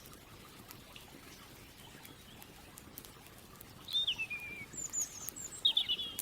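A songbird sings a few quick phrases in the second half: a falling run of notes, then short high chirps and a rapid cluster of notes. Under it, the faint scattered crackle of a campfire.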